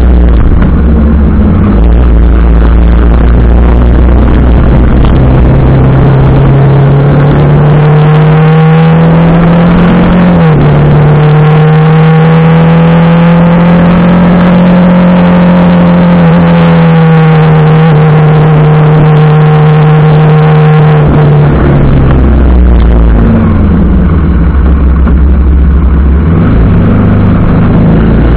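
TVS Apache RR 310's single-cylinder engine running while riding, over a loud rushing noise. The engine note drops sharply about ten seconds in, as at a gear change, then rises, holds and slowly falls, and climbs again near the end.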